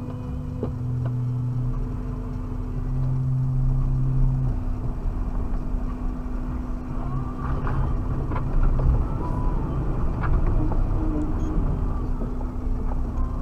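Suzuki Jimny driving over rough ground, heard from inside the cabin: a steady engine and road rumble with a constant hum, and a few scattered knocks and rattles.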